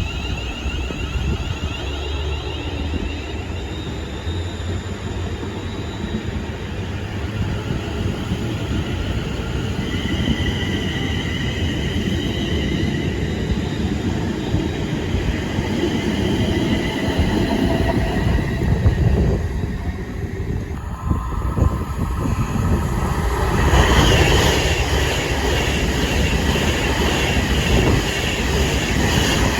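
Train running through the station: a steady low rumble of wheels on the track with high whining tones that drift in pitch, growing louder and harsher over the last few seconds.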